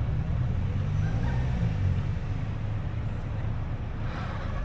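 A car's engine running at low revs, a low steady rumble whose pitch shifts slightly, as a car rolls in slowly.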